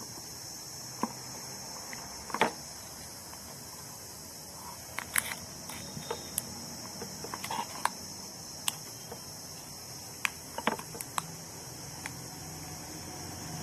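Scattered short clicks and taps of hands handling the pulled-apart parts of a dismantled battery, over a steady high-pitched chorus of crickets.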